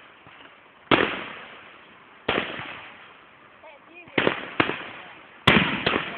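Fireworks display: six shell bursts, each a sharp bang with a rolling echo that dies away, spaced out at first and then coming in two quick pairs in the second half.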